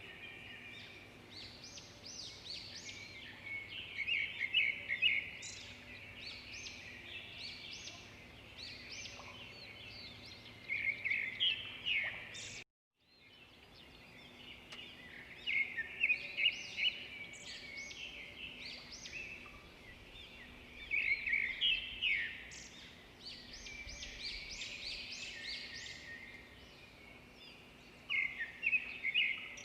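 Birdsong: several birds chirping and trilling in repeated clusters of short, high calls over a faint steady background. The sound cuts out completely for about half a second near the middle.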